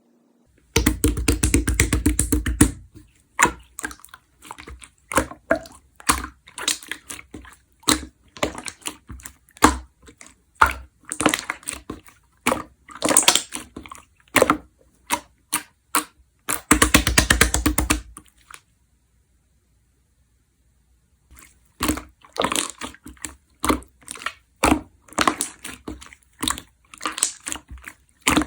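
Clear red slime being squeezed, pressed and stretched by hand, with rapid crackling and popping of trapped air. It pauses for about three seconds past the middle, then the clicking picks up again.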